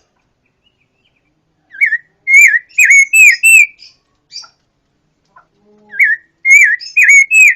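A songbird of the kind called pancawarna in Indonesia singing: two phrases of loud, clear whistled notes in quick succession, each note dipping and swinging back up, the first phrase about two seconds in and the second about six seconds in.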